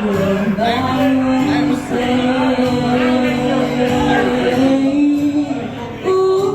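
Music with singing voices holding long, sustained notes that glide from one pitch to the next.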